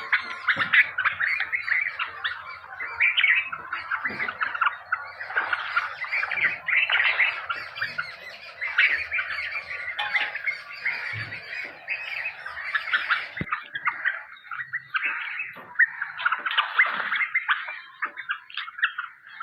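Several hungry nightingales calling for food, with dense, overlapping chirps and squawks. The calling thins out a little about two-thirds of the way through.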